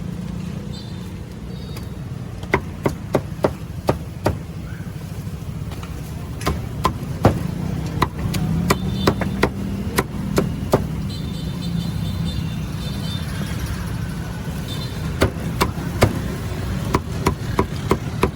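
Knife chopping on a cutting board in irregular sharp strokes, coming in clusters with short pauses between, over a steady low rumble.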